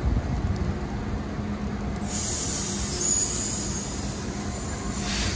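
Amtrak Acela Express electric trainset pulling away from the platform: a steady low rumble and hum, with a high hiss rising about two seconds in and stopping near the end.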